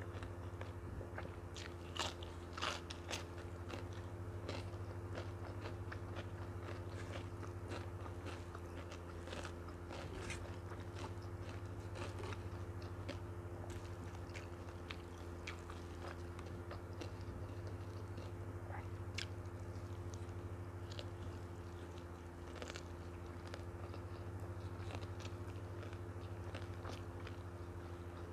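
Close-miked chewing and biting of a rice and noodle meal, with moist mouth clicks throughout and the loudest crisp crunches about two seconds in, as a cucumber slice is bitten. A steady low hum runs underneath.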